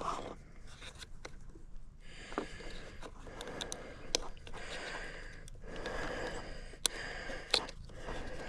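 Hands working a plastic body housing loose on a side-by-side: rubbing and rustling of the plastic with several sharp clicks as it is pried and pulled at.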